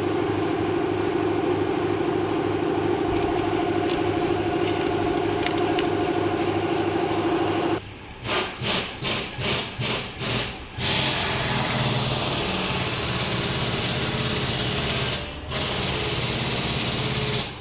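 A small motor runs steadily with an even hum. About eight seconds in it is switched on and off in quick pulses, roughly two a second, for about three seconds. It then runs steady again, with one brief stop near the end.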